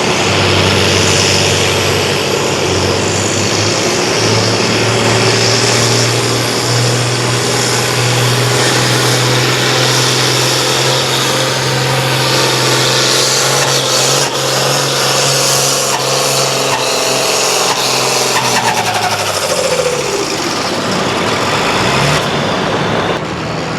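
Competition pulling tractor's engine running hard at full throttle down the track. Its note steps up a few seconds in and climbs slowly, then drops away in a falling glide near the end as the run finishes and the engine is throttled back.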